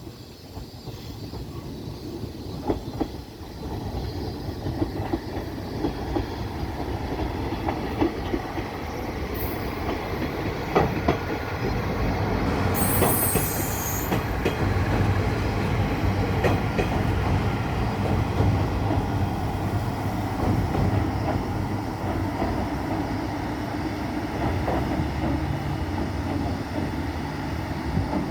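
KiHa 40-series diesel train running on the rails, rumbling steadily with scattered clicks of wheels over rail joints. It grows louder over the first few seconds.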